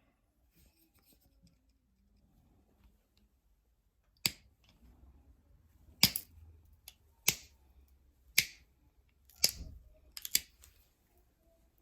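Flakes snapping off a novaculite point under a flintknapping tool: six or seven sharp clicks about a second apart, starting about four seconds in, the last two close together.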